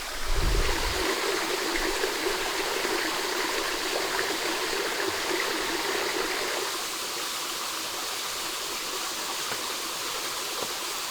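Stream water running steadily, a little quieter from about seven seconds in, with a low rumble in the first second.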